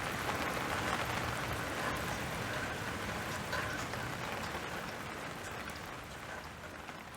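Steady rain falling, a continuous hiss with individual drops ticking on surfaces, slowly fading down over the last few seconds.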